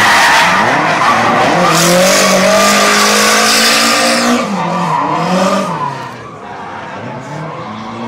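A drifting car's tyres squealing while its engine revs rise and fall. The sound is loud for about six seconds, then drops away as the car moves off.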